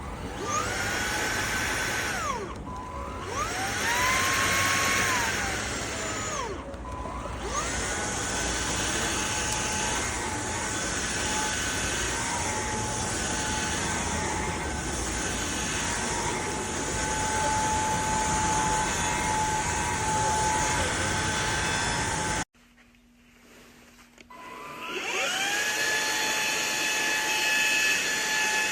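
Eureka cordless stick vacuum's motor running with a steady whine, its pitch dropping and recovering twice in the first several seconds. About 22 seconds in it cuts out abruptly, then spins back up a couple of seconds later.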